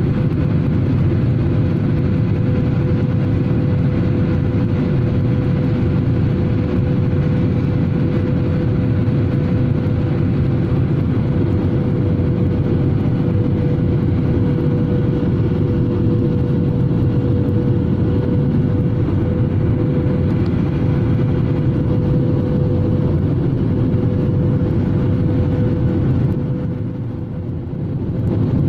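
Airliner cabin noise in flight: a steady rush of air and engine drone with a constant hum running through it. It dips briefly in loudness near the end.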